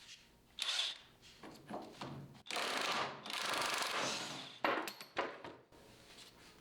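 Hand tools at work on the transmission mount bolts: a few knocks and clicks of metal, with a longer stretch of rasping noise in the middle, then a quick run of sharp clicks just after five seconds.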